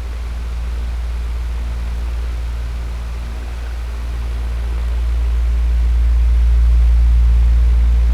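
Electric fan running steadily: a deep motor hum with a few low steady tones under a soft rush of air, swelling slightly louder near the end.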